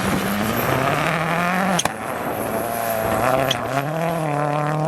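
Rally car engine pulling hard under acceleration, its pitch climbing steadily. About two seconds in comes a sharp crack as it changes up a gear and the pitch drops, then it climbs again and holds.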